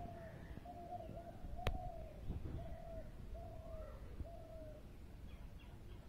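A bird calling a steady series of short notes, all at the same pitch and each dipping slightly at the end, about seven or eight in a row, stopping about five seconds in. A single sharp click sounds about two seconds in.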